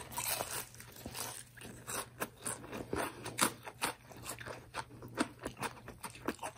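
Close-up crunching and chewing of crispy-battered karaage (Japanese fried chicken): a bite, then a run of irregular crisp crunches as the coating is chewed.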